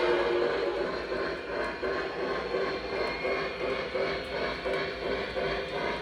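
Lionel Legacy O gauge Blue Comet steam locomotive running, its onboard sound system giving a steady rhythmic chuffing over the hum of the motor and wheels on the track.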